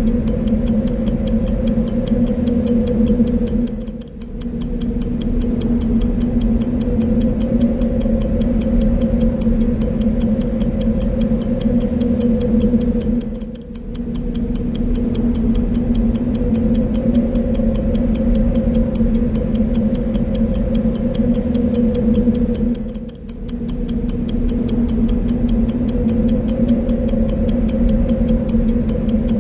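Clock ticking rapidly and evenly over a continuous low wind sound. The sound briefly dips and swells back three times, about every nine or ten seconds.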